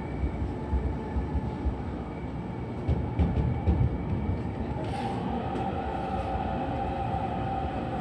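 Electric commuter train running slowly, heard from inside the carriage: a steady low rumble of wheels on rail with scattered clicks. A short hiss comes about five seconds in, then a steady whine holds to the end. The train is creeping under a speed restriction for strong wind.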